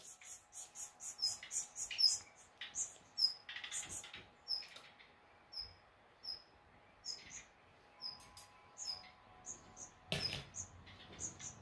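Small birds chirping: a steady run of short, high-pitched chirps, two or three a second.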